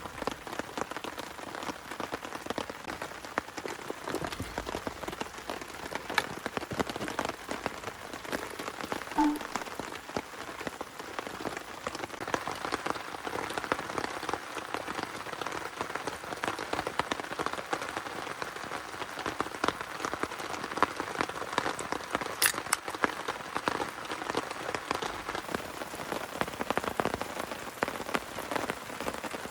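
Heavy rain falling steadily, a dense patter of countless drops with the odd louder single drip-tick; one sharp tick about two-thirds of the way through.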